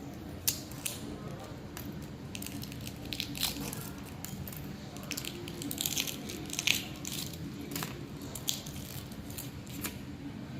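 Scattered crackles and sharp clicks of roasted egg shells being cracked and peeled, densest around the middle, over a steady low hum.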